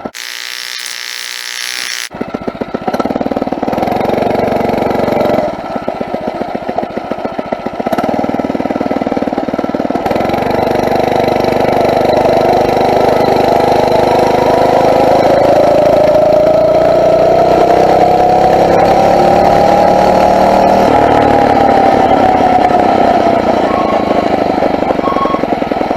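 Phatmoto four-stroke motorized bicycle engine running under way, its pitch climbing steadily for about ten seconds as the bike speeds up, then easing off near the end. A brief hiss comes at the very start.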